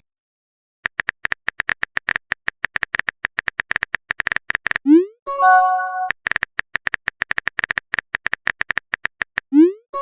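Smartphone keyboard clicks tapping in a fast, irregular run, each run ending in a short rising swoop and a brief chime, the message-sent sound. The pattern happens twice: the first chime comes about five seconds in and the second right at the end.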